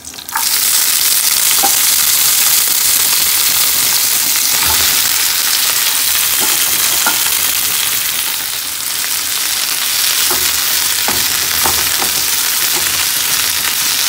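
Chopped rayo saag (mustard greens) with garlic and red chillies frying in hot oil in a nonstick pan: a loud, steady sizzle that starts suddenly just after the beginning. A few clicks of a spoon stirring against the pan come through it.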